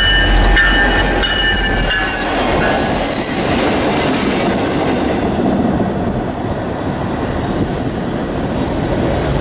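Railroad cars rolling past, with wheels squealing in high steady tones for the first two seconds or so, then a steady rumble and clatter of the wheels on the rails. The sound cuts off abruptly at the end.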